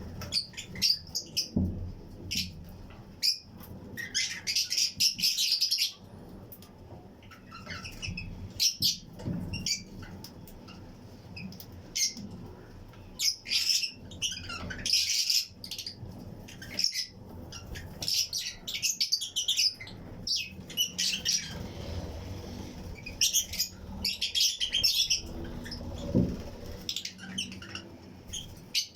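A colony of Fischer's and lutino lovebirds chirping, many short high calls overlapping in irregular clusters, with some wing flapping.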